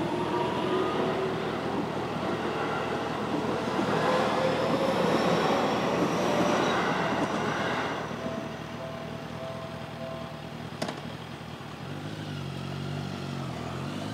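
An electric train passes over a railway crossing. Its motor whine rises in pitch as loud running noise builds and lasts about eight seconds, then drops away. The crossing's warning bell keeps ringing in a repeated tone, with a single sharp click near the end.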